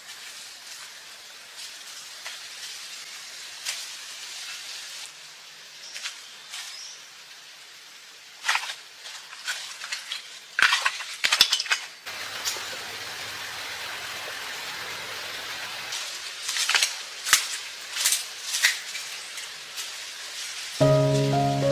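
Scattered sharp clinks and knocks over a steady hiss, in two busy clusters, with music coming in at the very end.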